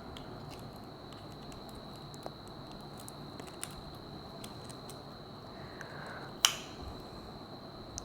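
Small clicks and taps of tools on the parts of a disassembled smartwatch, with one sharp click about six and a half seconds in. A steady faint high-pitched whine runs underneath.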